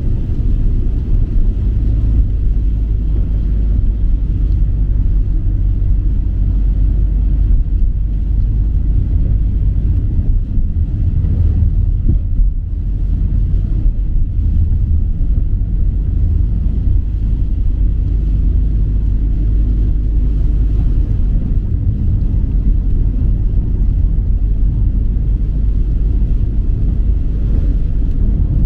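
A steady, loud low rumble that runs on without a break.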